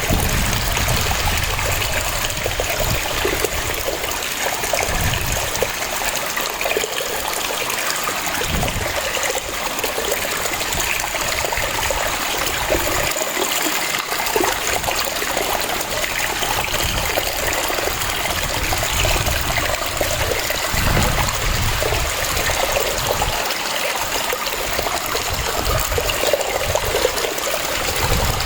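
Waterfall: water cascading in a steady splashing rush, with low rumbles swelling and fading every few seconds.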